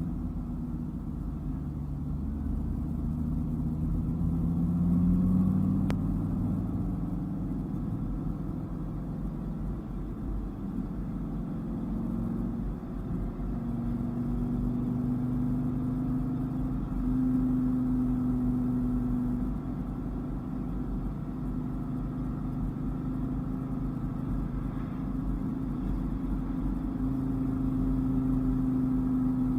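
Dodge Viper GTS's V10 engine running on the road, its note rising and falling with throttle and speed, over low road rumble.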